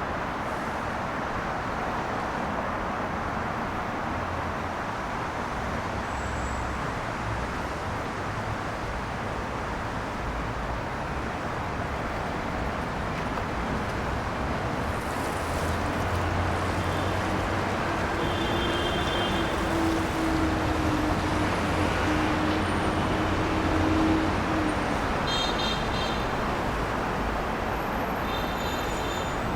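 City street traffic on wet roads: a steady hiss of tyres, with a heavier vehicle's low engine drone passing and growing louder from about halfway through. A few short high-pitched tones come near the end.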